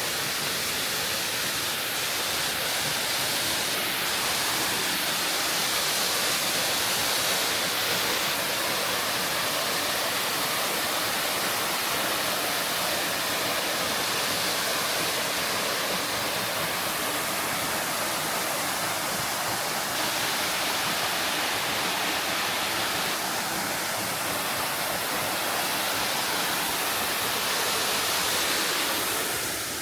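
Waterfall: a steady, even rush of spring water falling from a cliff.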